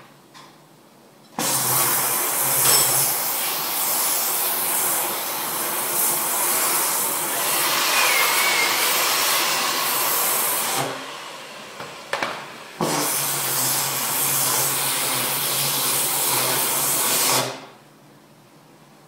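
A workshop machine running with a loud, steady rushing hiss over a low hum, for about nine seconds. It stops with a couple of sharp clicks, then runs again for about five seconds.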